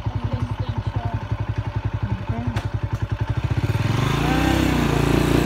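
Motorcycle engine idling with a regular low pulsing, then speeding up as it pulls away about four seconds in, the sound growing louder and smoother.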